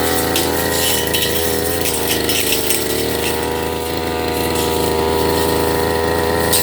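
Firman FGB389FI petrol brush cutter running at steady high revs while cutting grass, the engine note easing slightly near the middle, with many small ticks of grass and debris striking the cutting head.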